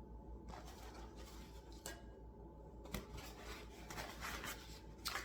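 Faint kitchen handling sounds as dishes and food containers are moved: a few light clicks and knocks with rubbing and rustling between them.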